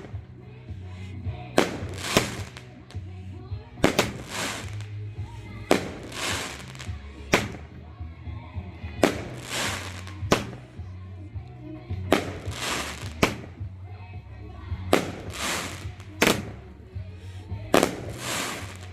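Music with a heavy bass playing through a fireworks display, with sharp firework bangs, each trailing a brief hiss of crackle, coming every second or two.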